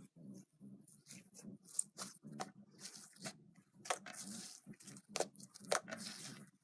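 Slime being squeezed and stretched by hand, giving wet squishes and a run of sharp crackling pops, several of them loud.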